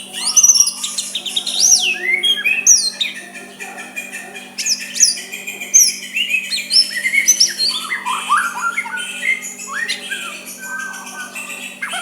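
White-rumped shama (murai batu) singing soft, varied phrases of quick rising and falling whistles and chirps, with a steady low hum underneath.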